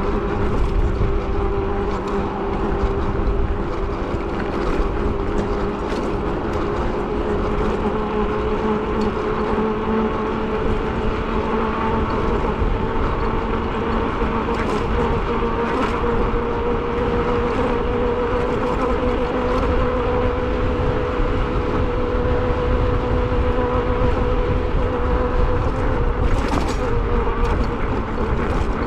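E-bike under way: wind rumbling on the microphone, with a steady whine from the electric motor that drifts slightly up and down in pitch with speed.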